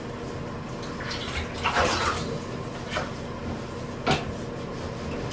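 Water splashing and sloshing in a bathtub as a cat is bathed, in irregular surges. The biggest comes about two seconds in, with a sharp splash about four seconds in.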